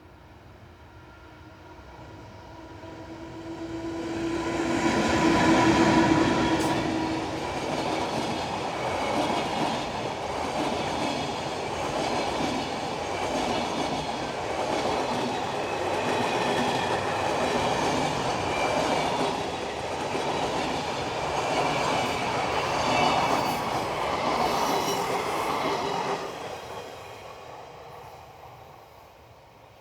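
Electric-locomotive-hauled freight train passing close by. The locomotive comes first with a steady humming tone, then a long string of wagons clatters past with a rhythmic clickety-clack of wheels over rail joints. The clatter drops off sharply near the end as the last wagon goes by, and the sound fades away.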